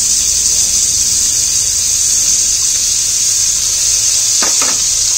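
Onions and chopped tomatoes frying in oil in an aluminium kadai, giving a steady sizzle over a low hum.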